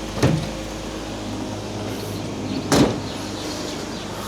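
BMW E46 engine idling steadily after an oil change, with two knocks, a small one just after the start and a louder one near three seconds in.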